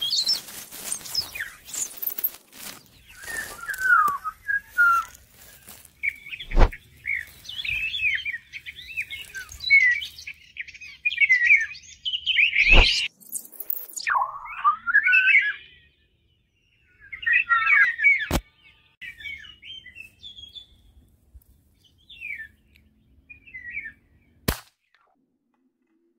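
A small songbird twittering and chirping in quick, varied phrases that come and go, with four sharp clicks spread through the stretch.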